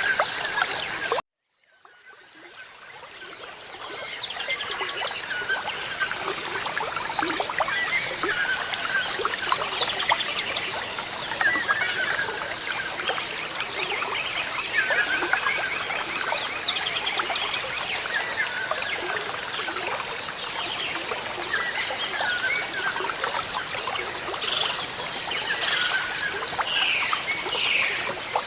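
Birds chirping with many short, repeated calls over the steady trickle of running water, with a constant high-pitched tone behind them. The sound cuts out about a second in and fades back up over the next few seconds.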